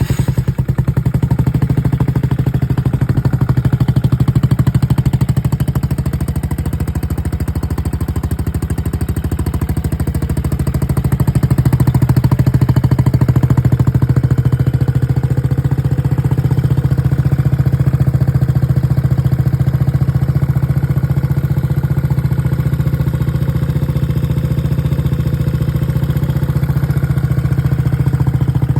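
Yamaha Cygnus X scooter's single-cylinder four-stroke engine idling through a straight-through aftermarket muffler: a loud, steady, even exhaust beat that swells a little a few seconds in and again near the middle.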